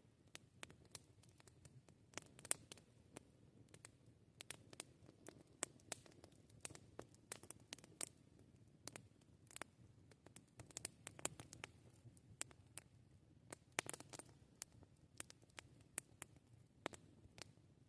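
Wood campfire crackling: irregular sharp pops and snaps, several a second, over a faint low rumble of the fire. The loudest pops come about two and a half seconds in and around fourteen seconds in.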